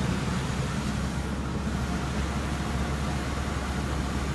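1990 GMC 2500 service truck's engine idling steadily, a low even rumble.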